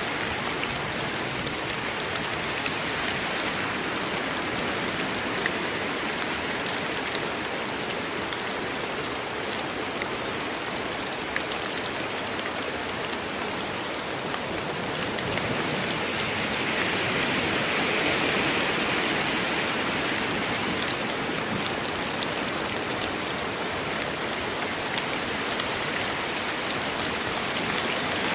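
Steady rain falling in woodland: a dense, even hiss with many separate raindrop ticks, growing somewhat louder for a few seconds a little past the middle.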